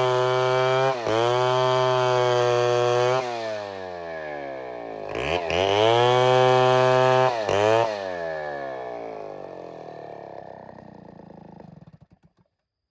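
Chainsaw engine running at high revs with brief dips, easing off at about three seconds, opening up again at about five, then slowing steadily and dying away near the end.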